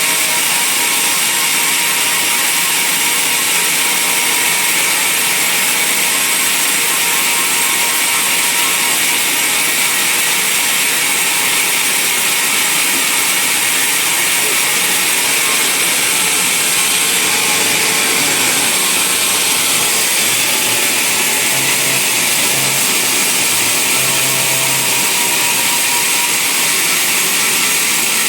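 Band sawmill running steadily at an even level, its blade sawing through a log.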